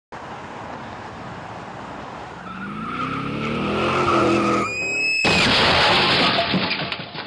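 Car crash sound effect: a car engine revving higher and higher, a short high tyre screech, then a sudden loud noisy crash that dies away near the end.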